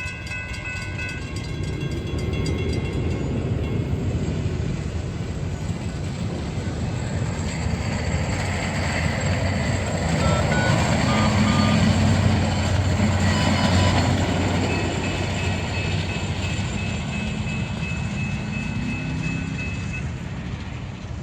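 A passing train: a horn chord cuts off about a second in, then the locomotive's engine and the rolling cars make a steady rumble that grows loudest midway and then slowly fades.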